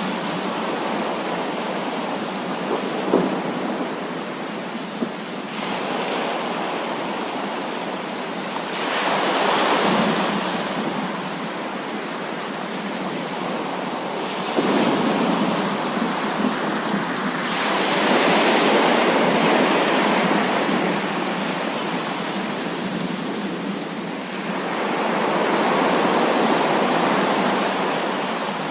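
Heavy rain falling as a steady hiss that swells louder and eases off several times, with a few sharp single drops hitting close by.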